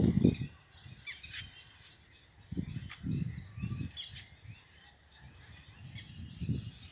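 Rose-ringed parakeets (Indian ringneck parrots) calling: scattered short, high chirps and squawks, some sliding down in pitch, with a few low muffled sounds underneath.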